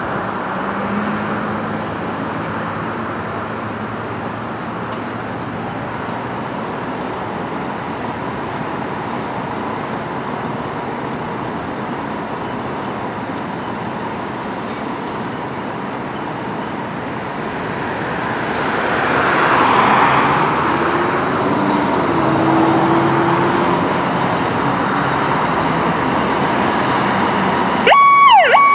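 Steady roadway traffic noise, with a vehicle passing loudly about two-thirds of the way through. Near the end a fire truck's siren starts up in a fast rising-and-falling yelp.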